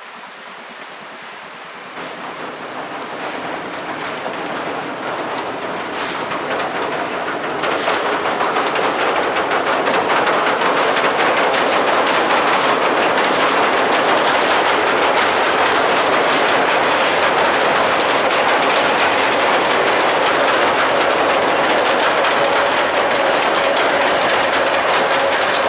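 A train hauled by a JNR Class C11 steam locomotive rolls across a steel girder railway bridge: a steady rumble with the clickety-clack of wheels over the rails. It grows louder over the first eight seconds as the train comes close, then stays loud while the coaches pass.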